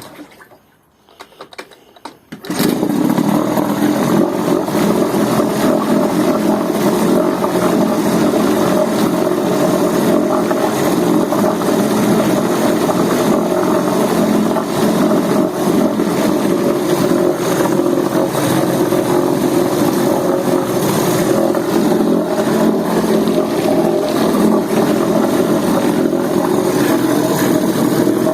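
Mercury 2.5 hp outboard motor running steadily, with preservative fogging spray being drawn through its carburettor. The engine sound comes in abruptly about two and a half seconds in, after a quieter stretch.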